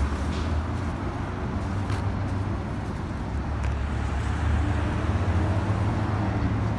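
City street traffic: motor vehicles running past with a steady low engine rumble, growing a little louder past the middle as one comes closer.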